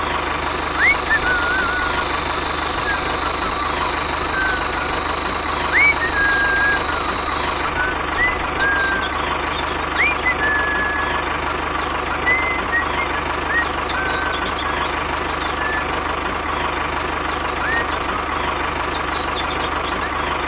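Small electric motor of a miniature DIY model running steadily, with a high steady whine over roughly the first seven seconds and short chirping glides scattered through it.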